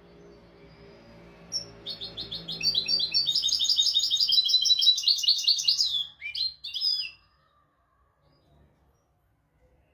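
European goldfinch singing a fast twittering phrase of rapid high chirps and trills that lasts about six seconds and stops abruptly near the end.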